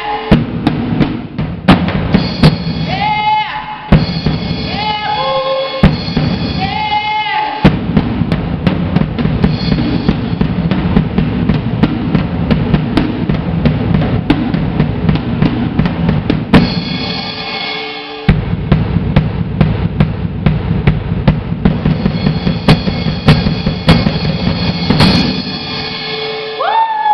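Drum kit played hard and fast, with dense hits on the drums and cymbals and a short break about two-thirds of the way through. In the first few seconds and again near the end, pitched tones glide up and down over the drumming.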